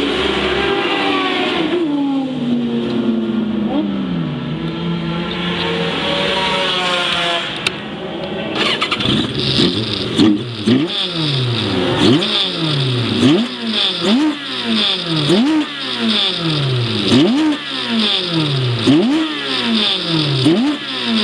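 Racing vehicle's engine on track, its note falling for the first several seconds. From about nine seconds in, the revs climb and drop back sharply over and over, roughly once a second. The engine is one the owner says is running badly.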